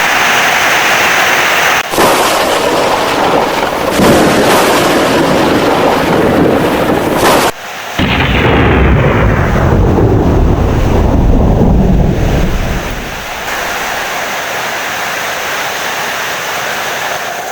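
Heavy rain with rolling thunder rumbling. The sound breaks off briefly twice, about two and eight seconds in, and the rumble eases after about thirteen seconds.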